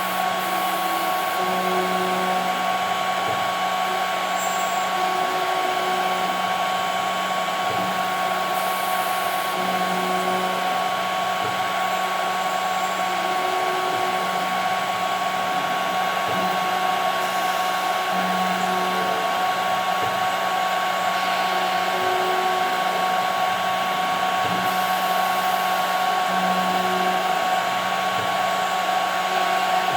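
CNC machine spindle running steadily with a constant high whine as it mills 5 mm plexiglass. Under it, a lower hum comes and goes every couple of seconds as the machine moves.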